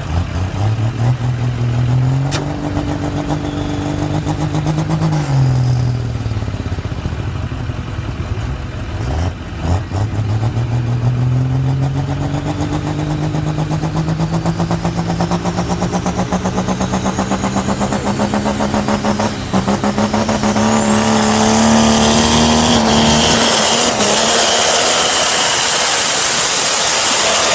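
Pulling truck's engine under load during a truck-pull run. It revs up, holds, and drops back. Then it climbs slowly and steadily in pitch for about ten seconds as it drags the sled, holding high and loud near the end while a loud hiss joins in.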